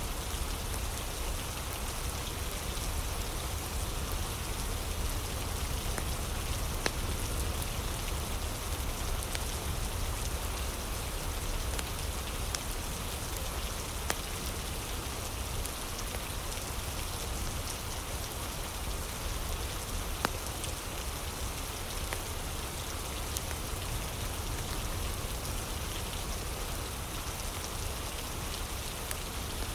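Steady rain with a fire crackling: an even hiss of rain, with a few sharp pops now and then.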